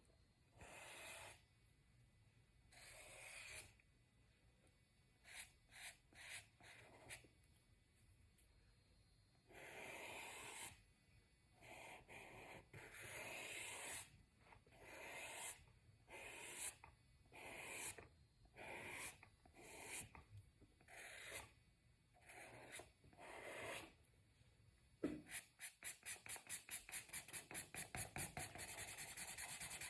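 Faint colouring strokes on paper: separate rubbing strokes, then near the end fast back-and-forth shading at about five strokes a second.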